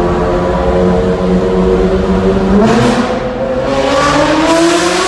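Ferrari engine echoing in a tunnel, holding a steady note, then revving up from about halfway through with its pitch climbing steadily.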